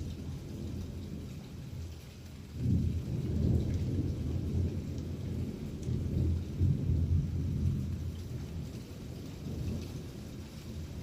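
Thunder rolling during a rainstorm: a low rumble that swells suddenly about two and a half seconds in, rolls on for several seconds, then eases, with a faint hiss of rain underneath.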